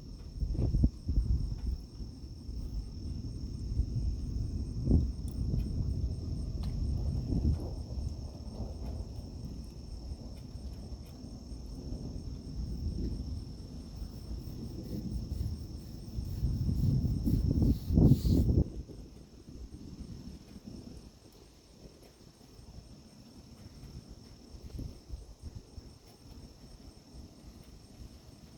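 Insects chirring steadily at a high pitch throughout, under a heavy low rumble with a few knocks that cuts off about two-thirds of the way through, leaving the insects.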